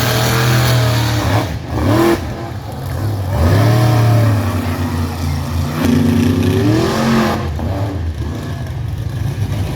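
Monster truck engine revving hard several times, its pitch rising and falling in repeated sweeps over a steady low drone.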